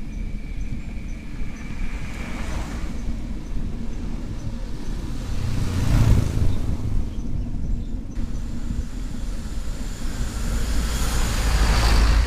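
Road traffic: a steady low rumble, with vehicles passing by about two and a half seconds in, again at about six seconds, and a louder one near the end.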